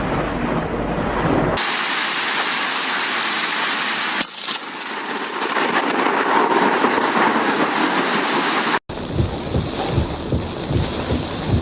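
Thunderstorm: rain falling and thunder rumbling, with uneven low rumbles in the last few seconds. The sound changes abruptly twice.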